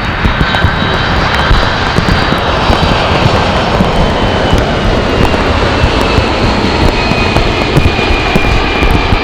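Jet airliner engines running loud and steady as a plane passes, with a high whine that slowly falls in pitch.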